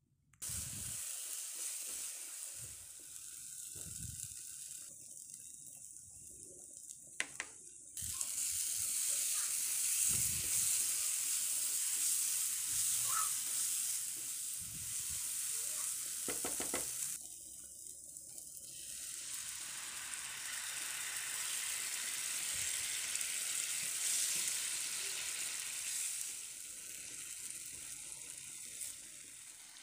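Masala paste sizzling as it fries in oil in a nonstick pan, stirred and scraped with a wooden spatula. The sizzle is a steady hiss, louder through the middle stretch, with occasional soft knocks of the spatula against the pan.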